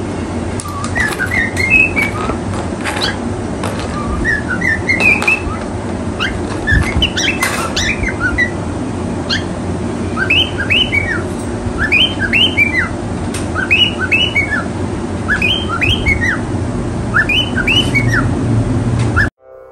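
Small caged pet birds chirping over and over in short, high calls that come in quick clusters. A steady low hum runs underneath, and there are occasional sharp clicks of the cage's plastic food dishes being handled. All of it cuts off suddenly just before the end.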